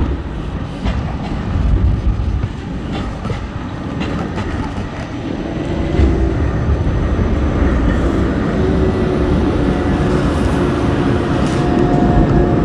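City tram passing close by on street rails: a loud low rumble with a few sharp clicks, and a steady whine that comes in about halfway through.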